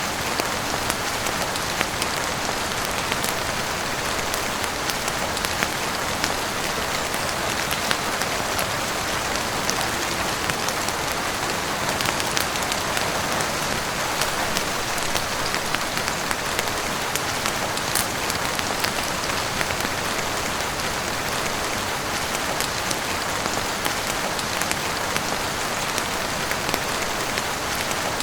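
Steady heavy rain falling on a roof and windows, an even rushing hiss with scattered sharp clicks through it.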